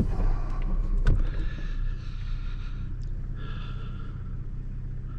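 Low steady engine hum of a 4WD heard inside the cab as it crawls down a steep dirt road, with two knocks about a second apart near the start and faint breathing sounds.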